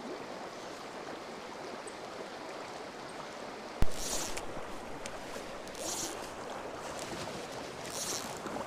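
Steady rush of a trout stream, with a sharp knock about four seconds in, then three short hissing pulls of fly line being stripped in, about two seconds apart.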